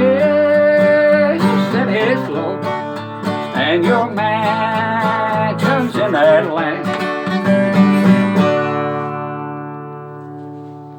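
Acoustic guitar strumming under a man singing the song's closing line. Near the end, a final chord is strummed and left to ring, fading away.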